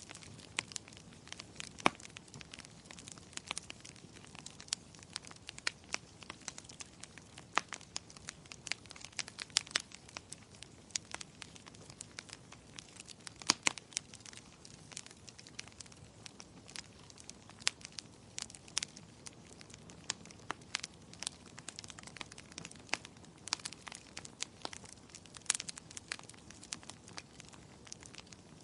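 Wood fire crackling: a steady stream of irregular sharp snaps and pops, a few of them louder, over a soft continuous hiss.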